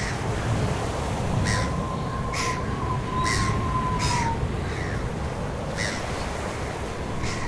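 Birds calling in short separate calls, about seven of them, over a steady low rumble. A thin, steady whistle-like tone sounds for about three seconds from about a second and a half in.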